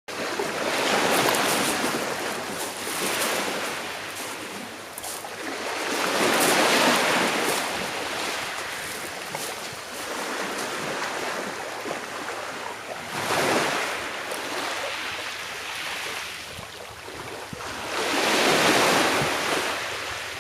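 Small waves of a calm sea breaking gently on the shore, the surf swelling and ebbing four times, roughly every five to six seconds.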